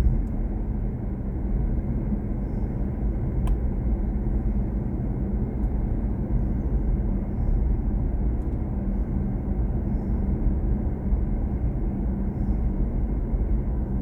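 Steady road and tyre rumble of a BMW i4 M50 electric car driving along.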